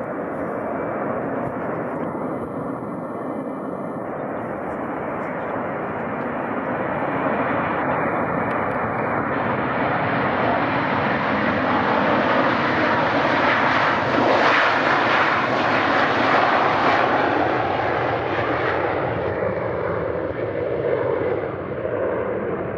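Airliner's engines passing by, a loud, even rush that builds for over ten seconds, peaks about two-thirds of the way through, then begins to fade.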